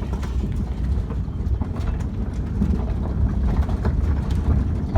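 Steady low rumble of a boat being launched down a shipyard slipway, its cradle running on the rails.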